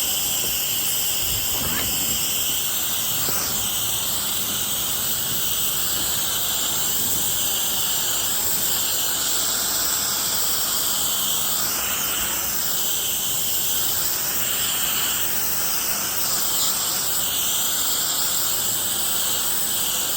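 Steady hiss of a spray wand applying soft-wash cleaning solution onto a deck.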